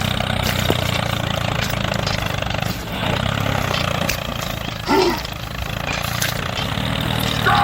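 Small engine of a mini DIY tractor running steadily at an even speed. A short vocal exclamation is heard about five seconds in.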